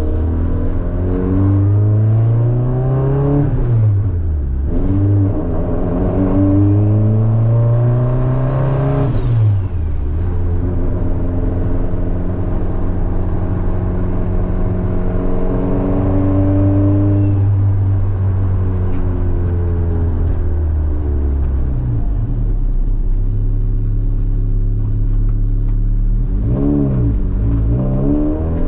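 Honda Civic engine heard from inside the cabin while driving. The engine note climbs, dips sharply in pitch and climbs again about 4 seconds in and about 9 seconds in, then holds a long steady cruise before a further dip and rise near the end.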